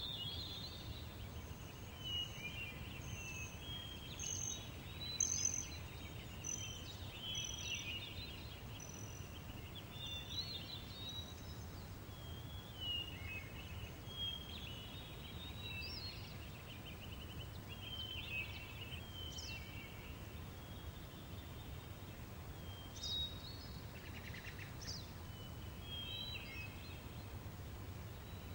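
Meadow ambience: several small birds chirping and trilling on and off over a steady low background hum of open air.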